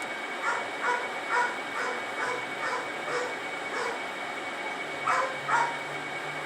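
Dog barking over and over, about two short barks a second, eight in a row, then a pause and two more near the end. A steady background hiss with a thin high tone runs under it.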